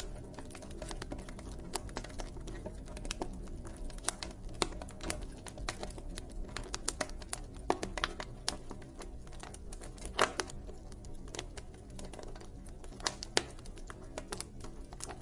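Wood fire crackling: irregular sharp pops and snaps over a steady low rumble, with a louder pop about ten seconds in and another near the end.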